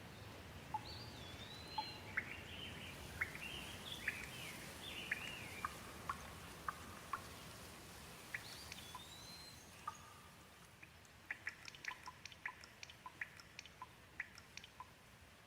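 Gentle rain falling as a faint, even hiss that slowly fades. Over it a bird chirps in short whistled glides during the first half and again briefly later. Scattered sharp drips come in a quick run in the last few seconds.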